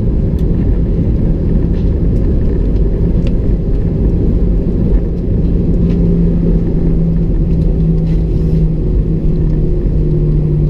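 Cabin noise inside an Airbus A319 rolling on the ground just after landing: a loud, steady low rumble with an even engine hum over it.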